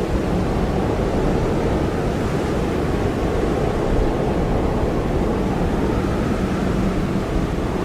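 Blizzard wind blowing hard and steadily, a deep rushing noise without gaps; a faint higher whistle comes in near the end.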